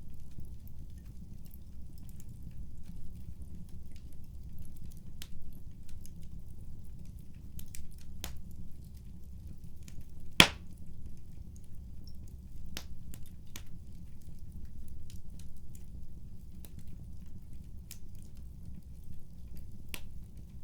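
Wood fire in a fireplace crackling, with scattered small pops over a steady low rumble and one loud, sharp pop about halfway through.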